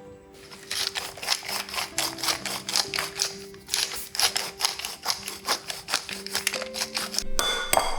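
A kitchen knife chopping quickly on a cutting board, several strikes a second, with a short scraping rush near the end, over soft background music.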